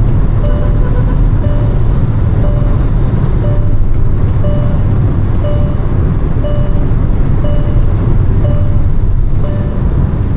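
Hyundai Verna with a 1.5-litre turbo petrol engine on the move: a steady, loud rumble of engine and road noise. Over it, a short electronic warning chime beeps about once a second throughout.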